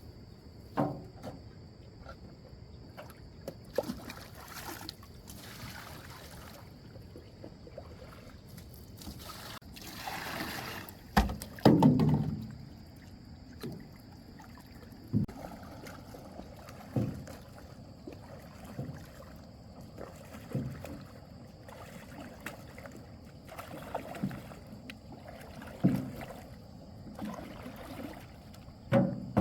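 Small boat being paddled on a lake: short paddle splashes and knocks against the hull every second or two, with a louder splash and clatter about eleven seconds in.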